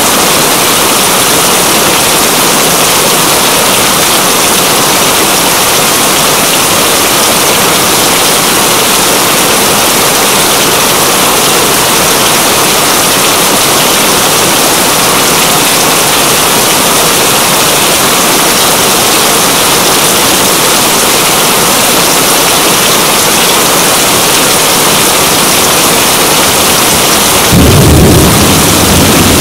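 Steady, heavy rain hiss. Near the end comes a short low rumble of thunder.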